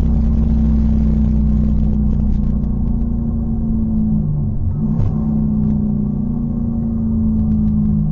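GM LS V8 engine of a race-prepared R32 Skyline GT-R heard from inside the cockpit, running steadily as the car slows off race pace. About halfway through the note briefly dips and breaks with a click as it shifts down a gear, then settles back.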